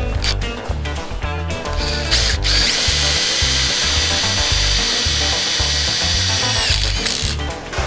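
Makita 40V max XGT TD001 cordless impact driver running for about four seconds, starting a little over two seconds in, as it drives a bolt on a scaffold-tube clamp; its whine rises as it spins up and then holds steady until it stops. Background music with a steady beat plays throughout.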